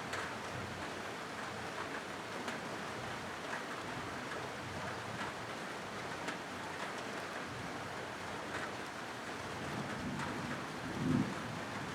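Steady rain falling on a corrugated zinc roof: an even hiss with scattered sharper drop ticks. A brief low rumble comes near the end.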